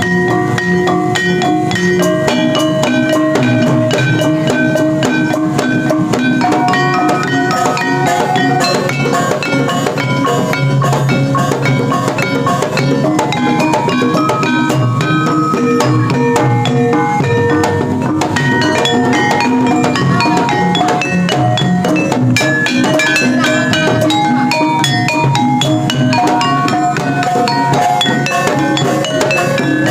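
Javanese gamelan ensemble playing: quick runs of struck metal-keyed notes over a steady drum beat.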